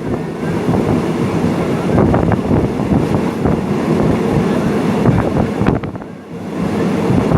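Train running on the rails, a loud steady rumble with scattered sharp clacks and wind buffeting the microphone; the noise eases briefly about six seconds in.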